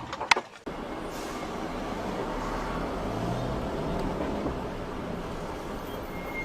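Two sharp, loud knocks in the first half second, then an abrupt cut to steady vehicle and road noise: a low rumble under an even hiss.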